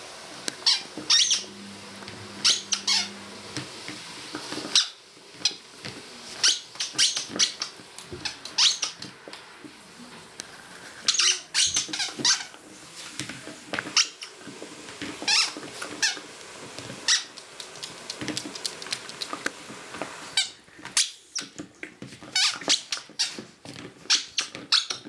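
Rubber squeaky dog toy squeaked over and over as a dog chews it: short high squeaks in quick irregular clusters, with a brief pause near the end.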